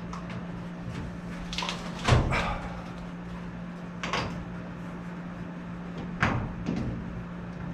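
A few separate knocks and clunks, the loudest about two seconds in, over a steady low hum.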